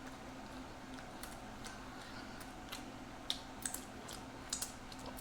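Quiet eating sounds: a handful of short, wet clicks from chewing and lip smacks, most of them in the second half.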